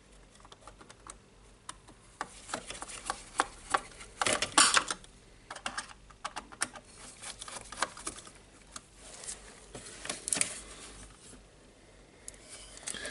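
Irregular clicks, taps and short rattles of hard plastic parts and hand tools being handled while a DeWalt DC011 site radio's case is taken apart, with a denser, louder spell of clattering about four seconds in.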